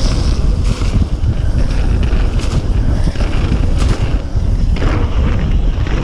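Wind buffeting the exposed microphone of a chest-mounted GoPro Session on a fast mountain-bike descent: a loud, continuous low rumble with a few brief rattles from the bike over rough ground.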